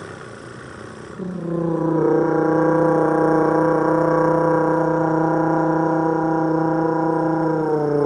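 A person's voice holding a steady droning tone that imitates the mid-range part of a V10 engine sound. It starts about a second in, holds an even pitch and sags slightly near the end.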